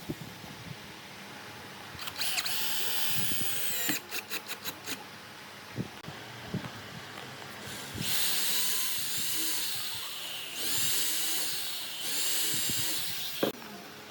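Electric power drill running in bursts: a run of about two seconds, then a quick string of short trigger pulses, then three longer runs with brief pauses between them. A few knocks fall in the gaps.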